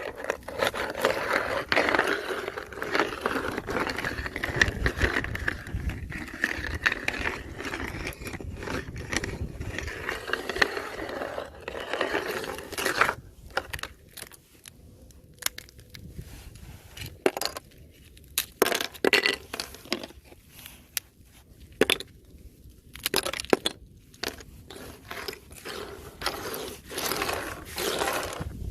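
Thin fresh ice being crunched and scraped continuously for about the first half. After that come separate sharp cracks and clinks of breaking ice, with quiet gaps between them.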